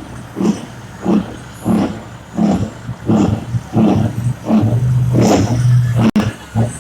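An engine revved in quick repeated bursts, about three every two seconds. A steady low engine note holds for about a second and a half after the middle.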